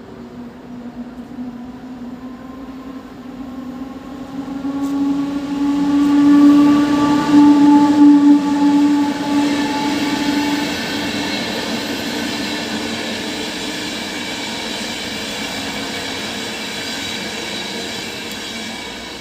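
EP09 electric locomotive hauling an Intercity passenger train through the station. A pitched hum builds to its loudest about seven seconds in, then gives way to the steady running noise of the coaches rolling past.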